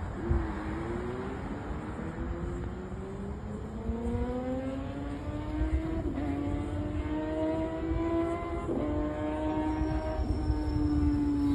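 Kawasaki ZX-6R's inline-four engine running under way. Its pitch climbs slowly, with two brief dips about six and nine seconds in.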